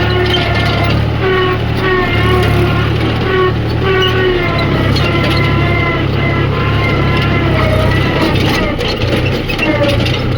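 Heavy diesel machinery engine running steadily, with short pitched notes from a voice or tune heard over it.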